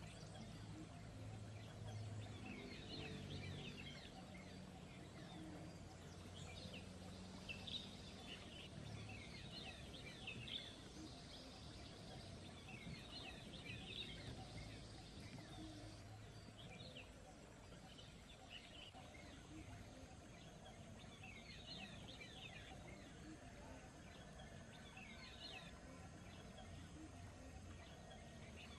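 Faint birds chirping in short clusters of quick high notes, repeated every second or two, over a soft steady background hiss. A faint low drone sits underneath for the first ten seconds or so.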